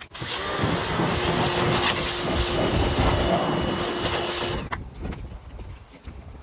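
Pressure washer spraying a car wheel: a loud, steady hiss of spray with a steady hum, cut off suddenly about four and a half seconds in as the trigger is released. Wind then buffets the microphone.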